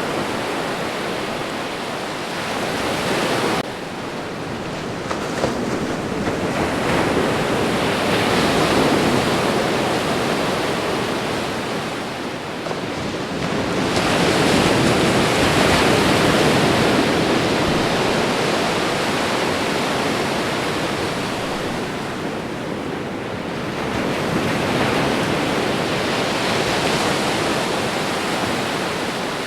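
Ocean surf: waves breaking and washing up one after another in a continuous rush that swells and eases about every eight seconds.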